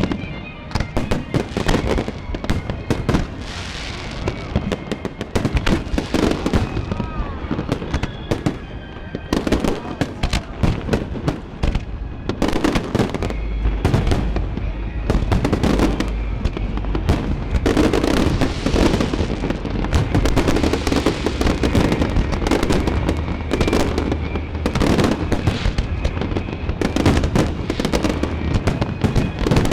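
Aerial fireworks bursting in rapid succession, a dense string of overlapping bangs and crackles that thickens into an almost continuous barrage about halfway through.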